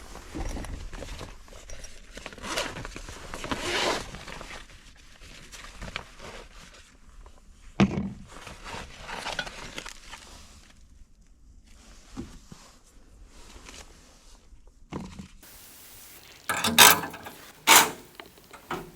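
Handling noises: rustling and scraping with scattered knocks, and two loud sharp clatters close together near the end.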